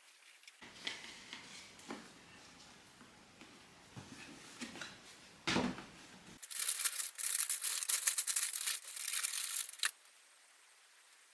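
A few light clicks and knocks of things being handled, then about three and a half seconds of loud crinkling, tearing rustle that stops suddenly.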